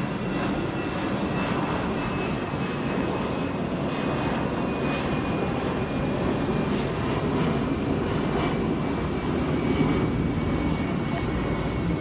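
Eurowings jet airliner's engines during takeoff: a steady rumble with a faint high whine that slowly drops in pitch.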